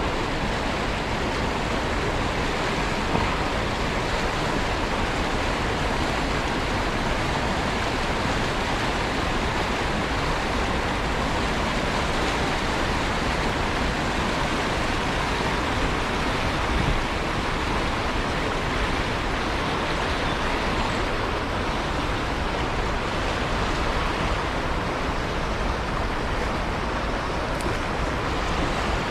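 Small river's water flowing, a steady rush.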